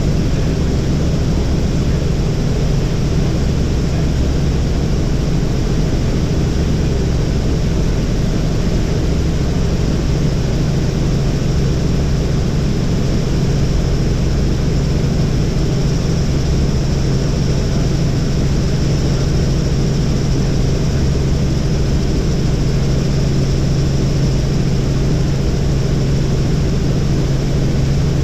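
Helicopter in flight: steady engine and rotor drone with a strong low hum.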